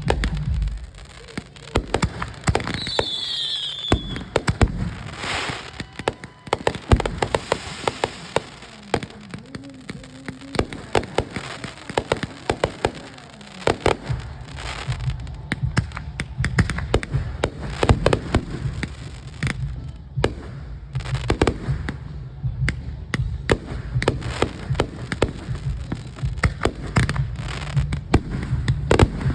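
Aerial fireworks going off in a rapid, irregular series of bangs and crackles, with a whistle falling in pitch about three seconds in.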